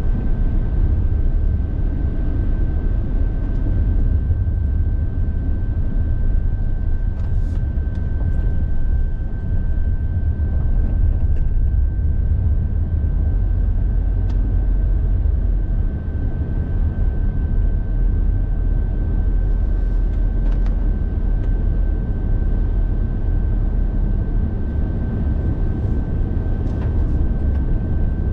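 A car driving along the road: a steady low rumble of engine and tyres, with a thin steady high tone and a few faint clicks.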